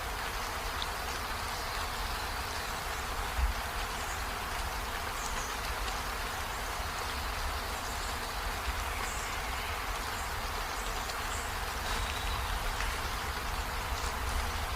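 Steady rainfall: an even hiss over a low rumble.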